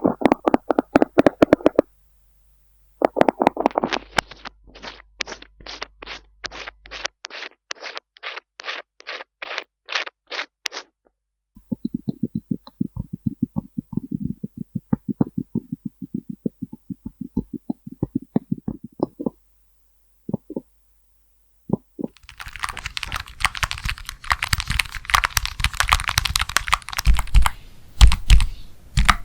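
ASMR tapping: runs of quick, crisp taps on a hard object, then a run of duller, lower-pitched taps. About twenty-two seconds in it turns to rough scratching with heavier knocks.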